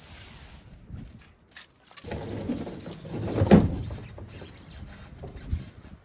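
Wooden bed platform scraping and knocking against the pickup's bed as it is pushed in for a test fit, with a loud knock about three and a half seconds in and a smaller thump near the end.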